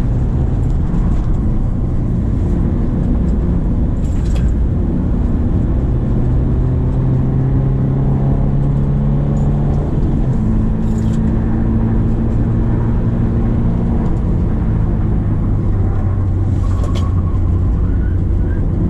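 Subaru Impreza XV 2.0's flat-four boxer engine running steadily under way, its note dropping in pitch about halfway through, over a road-noise haze. A few brief clicks are heard, at about four, eleven and seventeen seconds.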